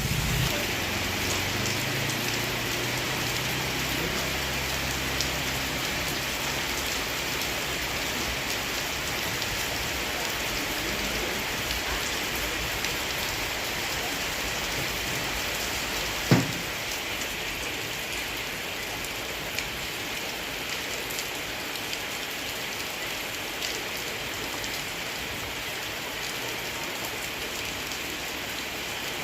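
Steady rain falling on surfaces. A low engine hum fades out over the first several seconds, and a single sharp knock comes about sixteen seconds in.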